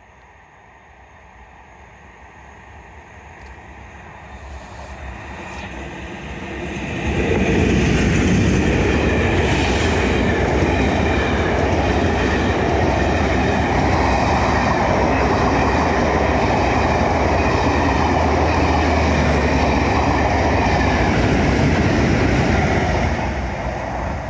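Diesel-hauled train of Class 20 locomotives and coaches approaching, growing steadily louder, then passing close by about seven seconds in, with a loud, steady run of engine and wheels on rail as the coaches go past. The sound begins to fade near the end as the train moves away.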